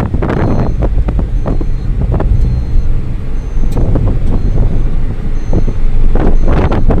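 Maruti Celerio hatchback under way in third gear: its small three-cylinder petrol engine and road noise make a steady low rumble.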